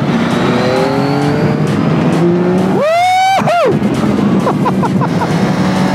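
Motorcycle engine accelerating hard, its pitch climbing through the revs to a high peak about three seconds in and then dropping. A few quick short revs follow near the end.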